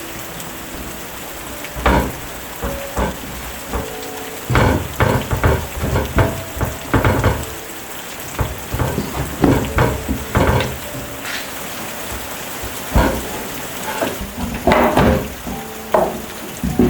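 Steady rain falling, with a series of irregular knocks and clinks over it.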